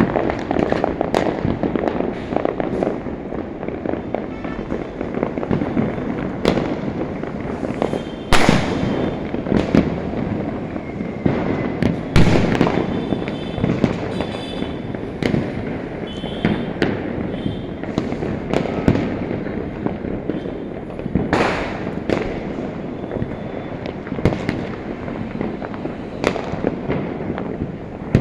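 Many Diwali firecrackers bursting at once: a dense, continuous crackle of rapid pops, like popcorn popping. Louder single bangs stand out about 8, 12 and 21 seconds in.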